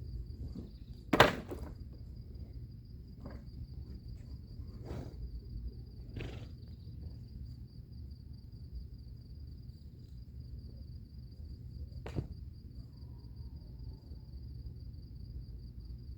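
A few sharp wooden knocks, the loudest about a second in and three more spaced out later, as pieces of firewood are dropped and stacked for a bonfire. Underneath runs an insect's steady high trill.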